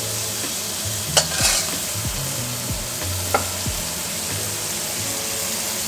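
Squid strips sizzling steadily in oil in a frying pan while a wooden spoon stirs saffron rice in a roasting pan, with a few sharp knocks of utensils against the pans.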